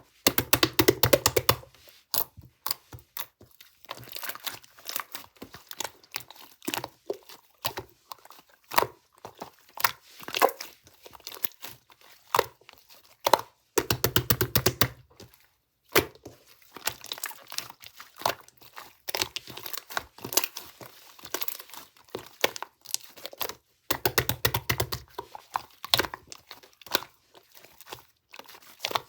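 Close crinkling and crackling handling noises, with three longer rasping, tearing-like stretches: one at the start, one about halfway through and one near the end.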